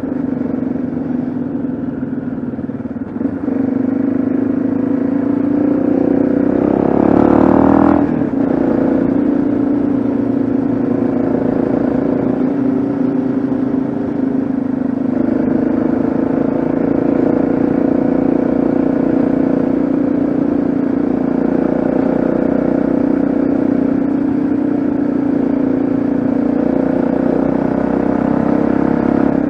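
Yamaha XT660Z Ténéré's single-cylinder engine running under way on the road, revving up from about six seconds in and dropping sharply at about eight seconds as it changes gear, then pulling steadily again.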